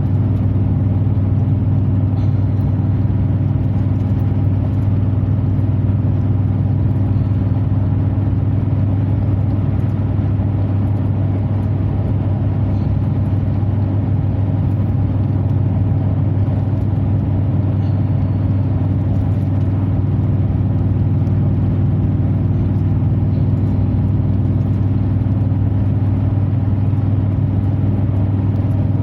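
Chevrolet Silverado 2500HD with a FlowFX aftermarket exhaust heard from inside the closed cab at a steady cruise: a constant, unchanging low exhaust drone with no revving.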